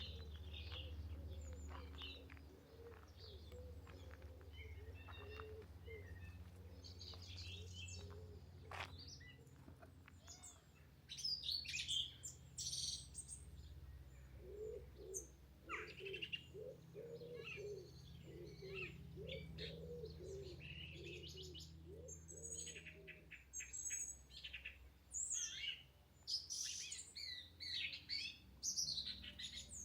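Several songbirds singing and chirping in short high phrases and trills, with a run of lower repeated call notes from about fifteen to twenty-three seconds in.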